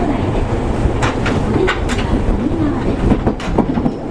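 Seibu 101 series electric train running, heard from inside motor car MoHa 223: steady running rumble with clicks from the wheels over rail joints, a cluster about a second in and another near the end.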